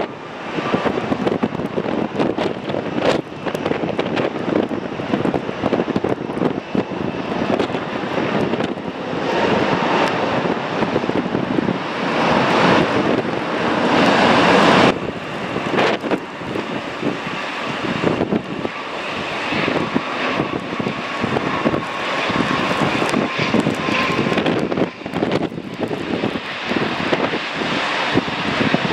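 Jet airliner on landing approach, its engine noise and turbine whine growing to a peak about halfway through and then dropping off suddenly. Gusty storm wind buffets the microphone throughout.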